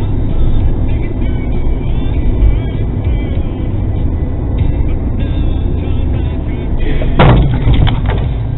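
Car driving, heard from inside through a dashcam: a loud, steady low road and engine rumble. A sudden sharp bang comes about seven seconds in, followed by a couple of smaller knocks.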